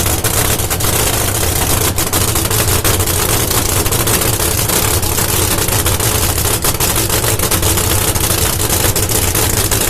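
Nitro-methane-burning supercharged V8 of a nostalgia funny car idling with a loud, steady, rapid cackle.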